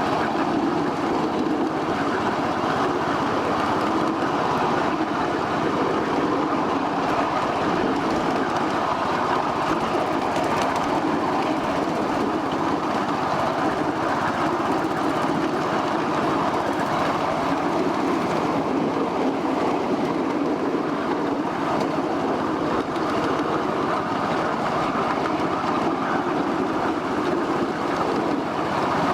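Ride-on 1/8-scale miniature train rolling along its track: a steady rumble and clatter of wheels on rail.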